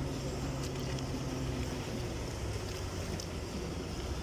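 Boat engine running steadily, a low hum whose pitch drops slightly about two seconds in.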